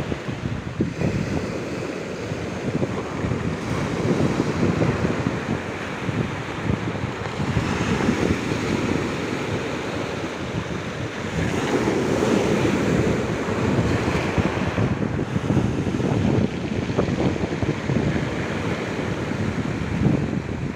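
Sea waves breaking and washing onto the shore in repeated swells, with wind buffeting the microphone.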